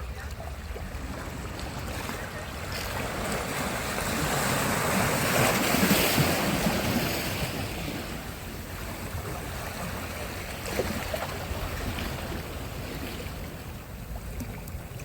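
Sea surf on a beach: a wave swells and breaks loudest about six seconds in, then washes away, with a smaller wash near the end and a steady low rumble underneath.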